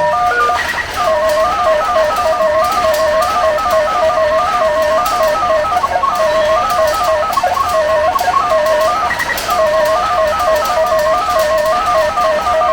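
Retro pachinko machine playing its looping electronic beeper melody: two simple tones stepping quickly up and down in a short repeating figure, with light clicking underneath.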